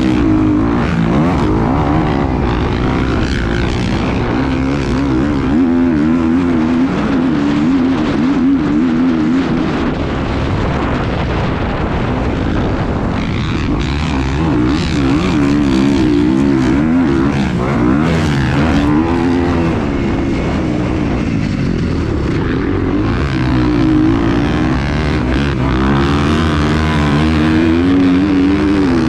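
An engine running continuously, its pitch wavering up and down over a low rumble.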